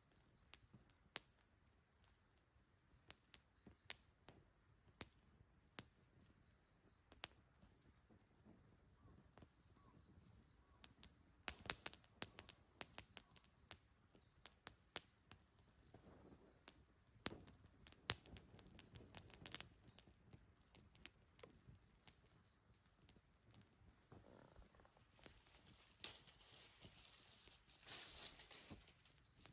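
Insects trilling steadily in a high, faint band, with scattered sharp crackles and pops. A louder rustling hiss comes in near the end.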